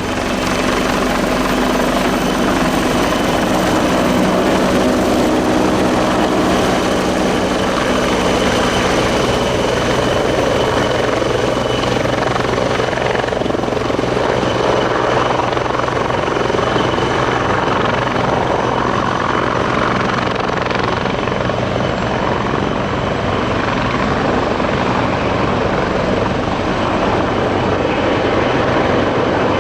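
Bell 430 helicopter running steadily, its twin turboshaft engines giving a steady high whine over the dense beat of the four-blade main rotor.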